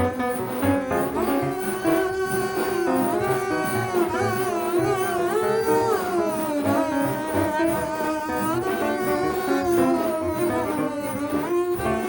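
Free-jazz trio music with drums, double bass and piano. A bowed double bass holds long notes that slide up and down in pitch over loose drumming.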